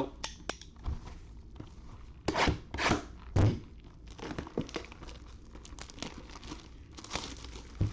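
Sealed trading card box being torn open by hand: irregular tearing and crinkling of cellophane wrap and cardboard, with a few louder rips and thunks.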